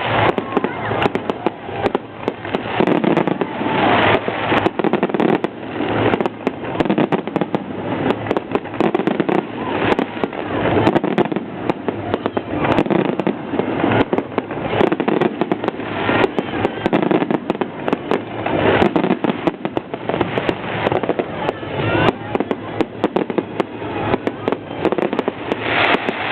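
Fireworks display in full swing: a dense, continuous barrage of bangs and crackling cracks, with a few whistling glides near the end.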